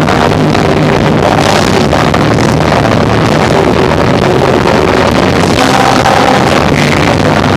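Live rock band of electric guitar, bass and drums playing, recorded so loud that the sound is overloaded and distorted into a dense, steady wash of noise.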